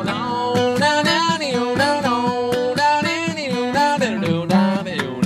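Acoustic guitar accompaniment of a comic folk song during an instrumental break, with a wordless melody line of held notes and small slides over it.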